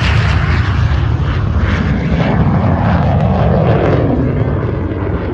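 MiG-17 jet fighter's turbojet engine making a low, fast pass: loud, deep rumbling jet noise, with a tone that slides down in pitch in the second half as the jet goes by.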